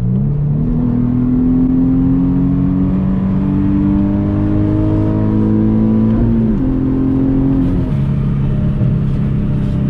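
Infiniti G37's 3.7-litre V6 through an ISR catback exhaust with resonated test pipes and Y-pipe, heard inside the cabin. The engine note jumps up as the car accelerates and climbs steadily for several seconds. It dips briefly about six seconds in, then falls back to a lower steady drone near the end.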